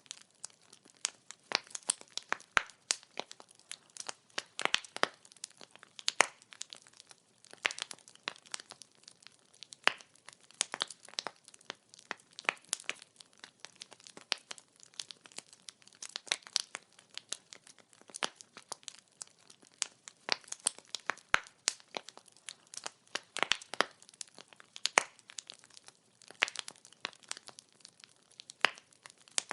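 Burning firewood crackling and popping: many irregular sharp snaps, several a second, over a faint hiss.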